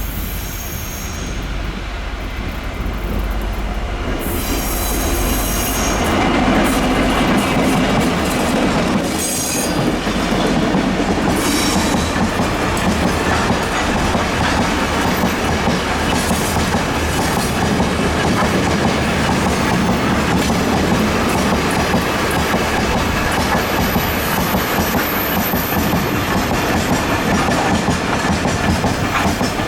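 Freight train passing, hauled by Taiwan Railway R-class diesel-electric locomotives. A steady low engine hum comes first, then the wagons roll by with clickety-clack and short, high wheel squeals.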